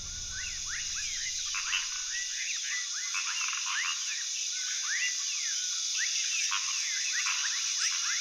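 A dense wildlife chorus of many overlapping short chirping calls, each a quick sweep up or down in pitch, over a steady high hiss like insects; low music fades out in the first couple of seconds.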